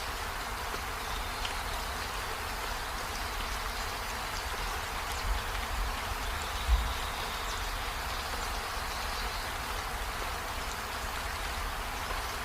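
Steady rain falling on trees, an even hiss with a low rumble beneath and two brief low thumps a little past the middle.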